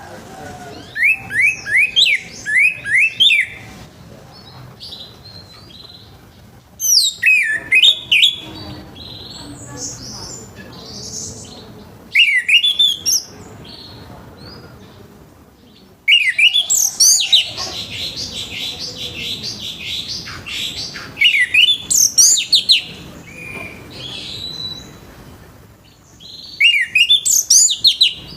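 Orange-headed thrush singing its full, loud song in repeated bursts of rapid sweeping notes, each burst a second or two long with short pauses between.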